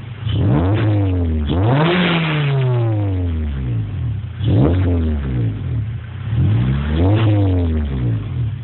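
2007 Honda Civic Si's 2.0-litre i-VTEC four-cylinder with an aftermarket header and Borla exhaust, revved in neutral several times: each rev climbs quickly and falls back to idle, the biggest one about two seconds in. The exhaust note is deep and throaty.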